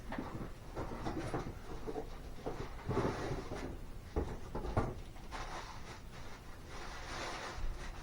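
Handling noises: irregular knocks, clunks and rustling of objects being moved about.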